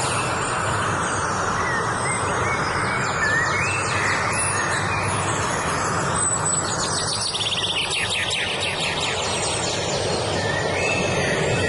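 Several wild songbirds singing over a steady rushing background noise: short rising whistled notes recur, and a fast trill runs from about the middle of the stretch for a few seconds.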